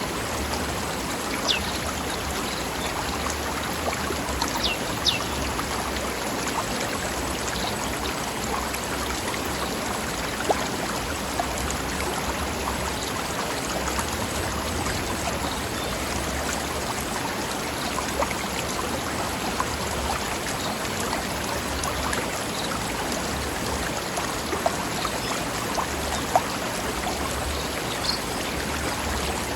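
River water flowing and splashing over rocks: a steady rushing babble with small splashes. A few brief high chirps come through in the first five seconds and again near the end.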